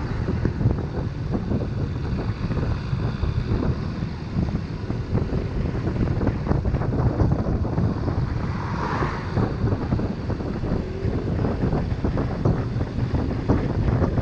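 Wind buffeting the microphone during a motorcycle ride, a steady rushing rumble over engine and road noise. A brief higher sound comes about nine seconds in.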